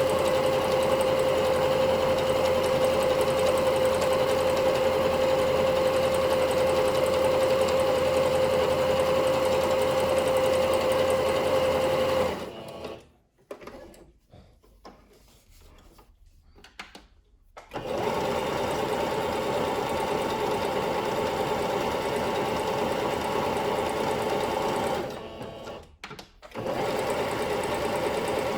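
Singer Curvy sewing machine running at a steady speed. It stops about twelve seconds in, is still for around five seconds, then runs again a little quieter, with a brief stop near the end.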